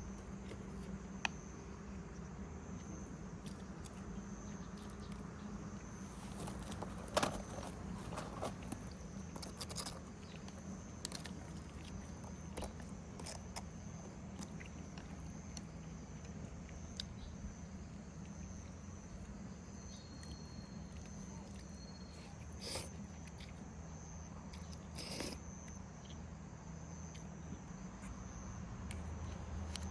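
Insects, likely crickets, chirping steadily in a constant high thin tone over a low hum, with scattered clicks and knocks of things being handled, the sharpest about a quarter of the way in.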